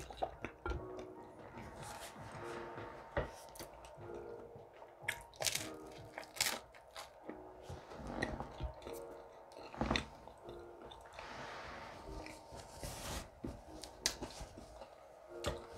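A person chewing a mouthful of food, with wet mouth smacks and scattered short clicks. The food is an English-style breakfast of smoky baked beans with bacon.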